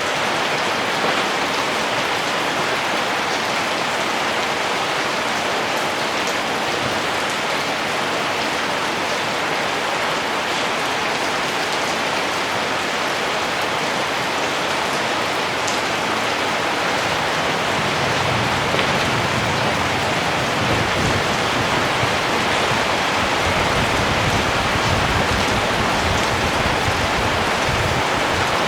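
Steady, dense rainfall hissing and pattering. A low rumble comes in about two-thirds of the way through.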